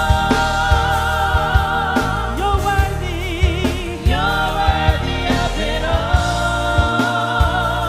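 Gospel praise-and-worship music: singers hold long notes with vibrato over bass and a regular drum beat.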